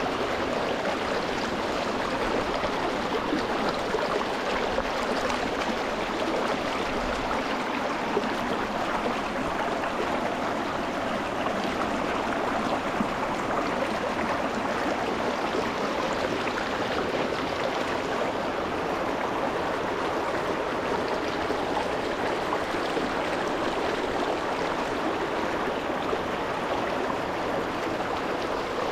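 Small rocky mountain stream flowing over stones close by: a steady, even rush of running water with no breaks.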